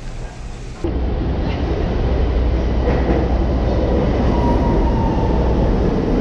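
Chicago CTA subway train running, a heavy steady low rumble that starts sharply about a second in and grows a little louder, with a faint wheel squeal in the middle.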